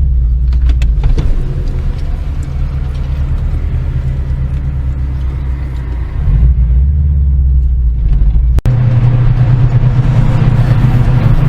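A car engine running with a steady low drone that grows louder about six and a half seconds in. The sound drops out for an instant about eight and a half seconds in.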